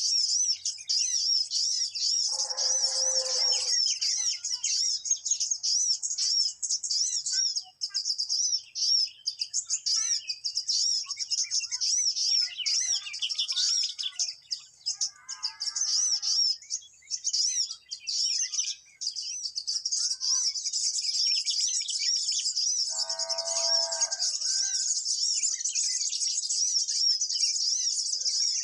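Continuous fast, high-pitched bird chirping in quickly repeated notes: a lure call for the mantenan bird. Two short, lower calls break in, one about three seconds in and one about twenty-three seconds in.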